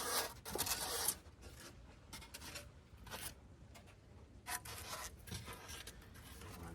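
Rigid foam board insulation being worked by hand: scraping and rubbing strokes, a long run in the first second, then shorter strokes through the rest.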